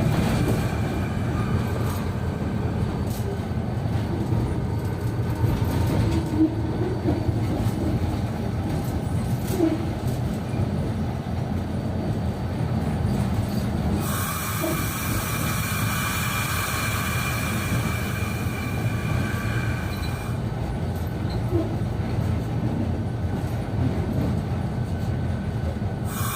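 Train rolling along the track with a steady low rumble of wheels and wagons. A high steady wheel squeal joins a little past the middle for about six seconds.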